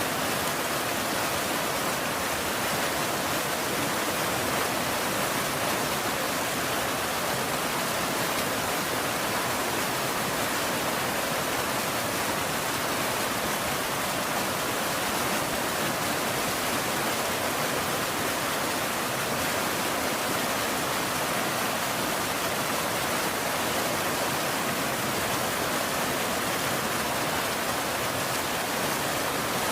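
Steady rain, an even hiss with no thunder and no change in level.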